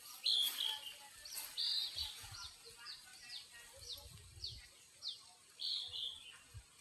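A bird calling: a series of short, high notes, each sliding down in pitch, about two or three a second, broken by a few louder, longer notes.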